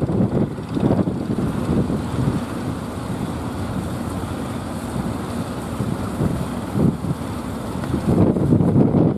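Strong wind buffeting the microphone in irregular low rumbling gusts, steadier through the middle and gustier near the end.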